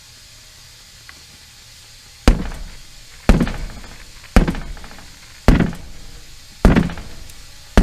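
Six heavy strikes on the steel rim of a large tractor wheel, about a second apart. The first comes a couple of seconds in, and each rings briefly as it dies away.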